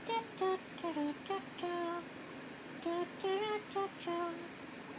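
A woman humming or softly singing a short, simple tune, with notes stepping up and down.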